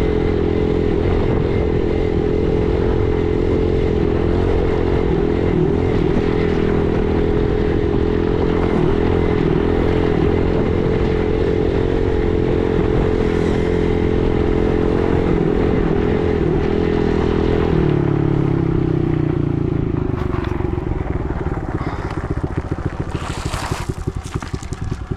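Dirt bike engine running at steady revs, then the revs fall away over the last several seconds as the bike slows, with a brief scrape or clatter near the end.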